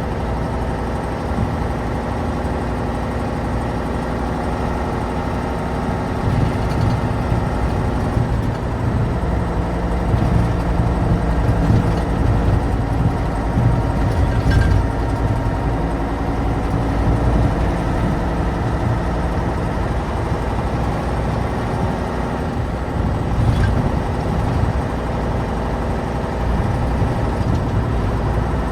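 Tatra 815's air-cooled, naturally aspirated V10 diesel engine running as the unloaded dump truck drives, a steady low drone whose pitch shifts about eight seconds in and then holds.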